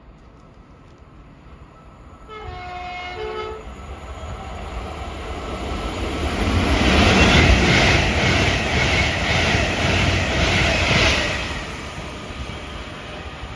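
A train sounds a short horn blast of a little over a second, then passes at speed, the rush of its approach building to a loud, rhythmic clatter of wheels over the rails before it fades away.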